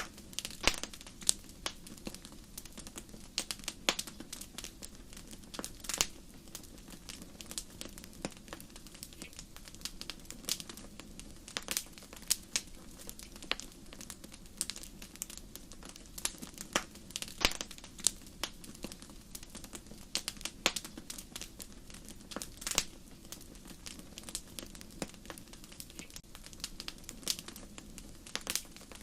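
Wood fire crackling and popping: sharp irregular snaps over a low, steady rumble of flames.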